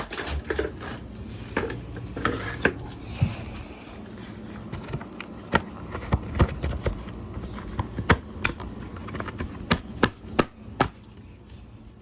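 Garbage disposal being smashed: a long series of sharp, irregular blows on its casing, a quick cluster of four near the end.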